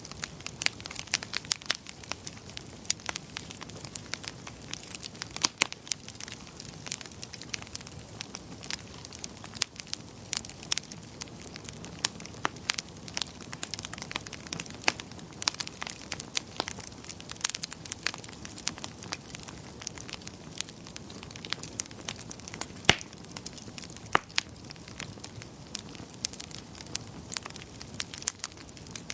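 Wood fire crackling in a fireplace: frequent, irregular sharp pops and snaps over a low, steady rush of burning.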